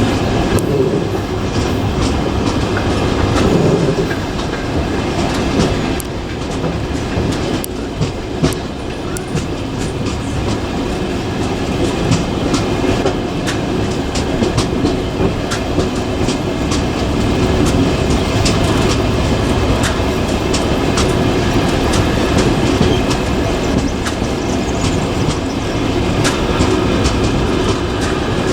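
Passenger train running on the track, heard from a carriage window: a continuous rolling rumble with wheels clacking irregularly over the rail joints.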